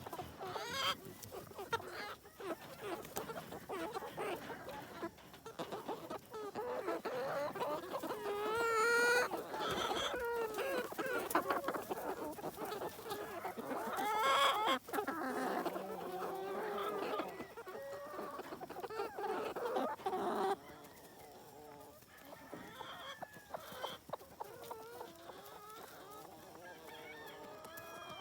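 A large flock of chickens clucking and calling together as they pour out of the coop, with a rooster crowing a couple of times in the middle. The clamour drops away suddenly about twenty seconds in, leaving fainter clucking.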